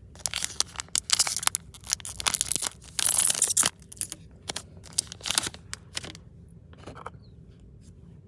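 A One Piece trading-card booster pack wrapper being torn open and crinkled in a series of short rips. The longest, loudest tear comes about three seconds in, followed by lighter crinkling toward the end.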